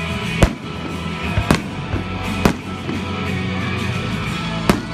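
Aerial firework shells bursting with sharp bangs, four main ones roughly a second apart, the loudest near the start, over steady music with guitar.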